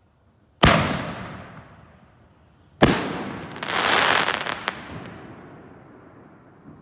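5-inch canister firework shells going off: two sharp booms about two seconds apart, each followed by a long rolling echo. After the second boom a thundering echo swells up and slowly dies away.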